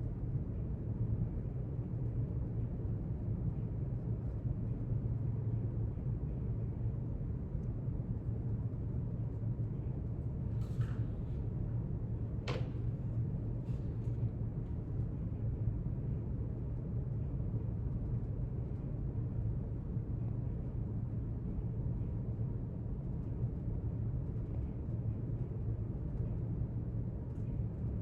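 Steady low rumble of quiet library room ambience, with a few faint clicks near the middle, one sharper than the rest.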